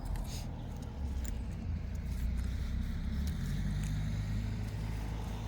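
A vehicle engine running: a low, steady rumble that shifts in pitch about three seconds in, with a few light clicks.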